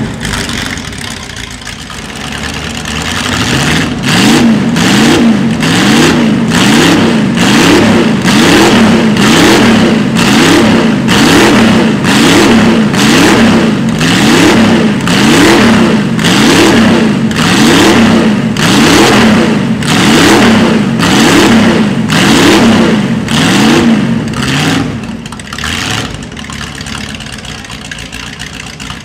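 Race-prepared De Tomaso Pantera's Ford 351 Cleveland V8 being blipped in the pits, revving up and dropping back about once a second in a long run of throttle blips. Near the end it settles to a steady idle.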